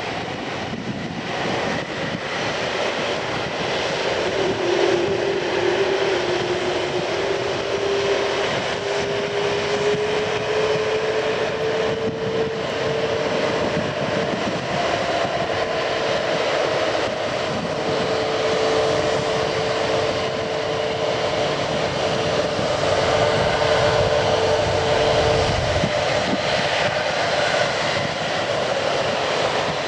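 Jet airliner's engines running, a steady rushing noise with a whine that comes in a few seconds in, slowly rises in pitch and fades away near the end.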